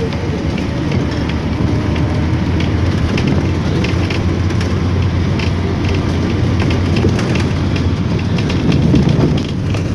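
Car driving on a wet, broken road: a steady engine and tyre rumble with many small knocks and clicks scattered through it.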